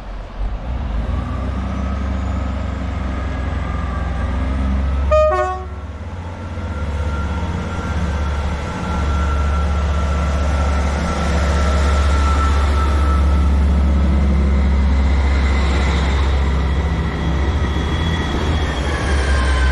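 East Midlands Railway diesel train pulling out of the station: its engine runs with a steady low rumble, and it gives one short horn toot about five seconds in. The engine sound grows louder from about eight seconds as it gets under way, with a faint rising whine.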